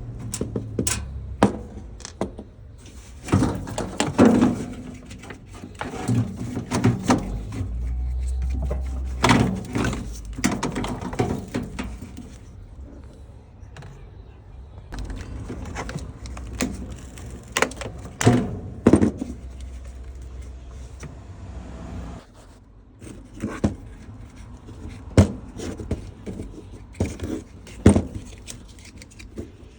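Irregular clicks, knocks and clatter of plastic parts and tools being handled while a washing machine drain pump is taken apart, with bursts of low handling rumble.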